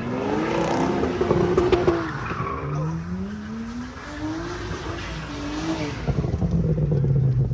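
Car engine revving in several rising sweeps over skidding, squealing tyres, as a car spins donuts; about six seconds in the engine settles to a steadier pitch.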